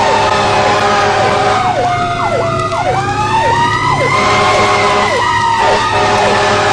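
Two emergency-vehicle sirens sounding together. One is a slow wail that falls and then rises again about midway. The other repeats a quick downward sweep about twice a second, over a steady low hum.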